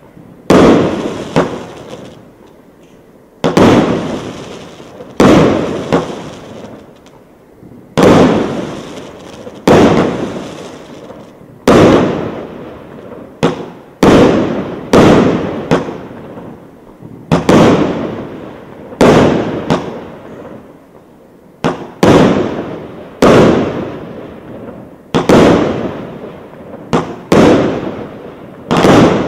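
A 25-shot, 1-inch consumer fireworks battery firing shot after shot: a sharp bang every one to two seconds, sometimes two close together, each fading away in a hissing tail.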